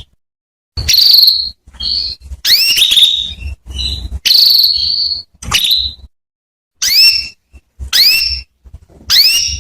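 Female canary calling over and over, about one call a second: some calls sweep sharply up in pitch, others are held on a single high note. This is the female's call that draws a male canary to sing.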